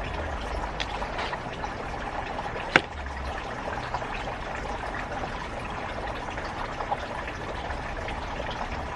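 Steady trickle of running water, with one sharp click about three seconds in and a fainter one near the end.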